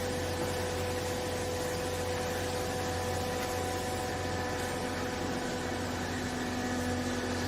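Textile baler machine running steadily: an even mechanical hum with several held tones. A lower tone joins about five and a half seconds in.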